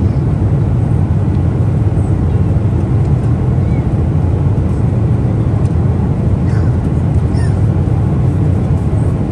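Steady low rumble of a Boeing 777-300ER's cabin noise, even and unchanging, with a few faint short chirps above it.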